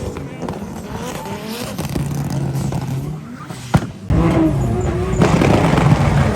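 Drift cars' engines revving up and down at high revs with some tyre squeal, a sharp pop just before the four-second mark, then an abrupt jump to a louder, harder-revving car.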